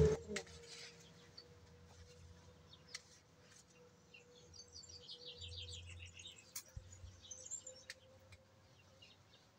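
Faint chirping of small birds, a few quick high-pitched chirp series in the middle, with a few light clicks.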